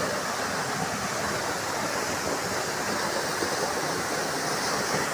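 Waterfall crashing steadily onto rock: a continuous, even rush of falling water.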